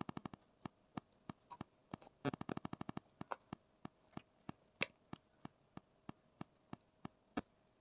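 Close-up chewing and mouth sounds: a steady string of short wet clicks and lip smacks, about three a second, with a quicker run a little over two seconds in, as chicken kebab is chewed with the mouth open.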